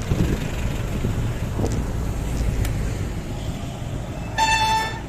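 Steady low wind and road rumble, and about four seconds in a single short horn beep lasting about half a second.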